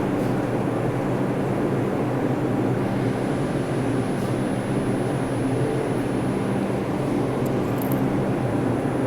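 R62A New York subway car running at steady speed: an even rumble of wheels on the rails with a constant low hum underneath.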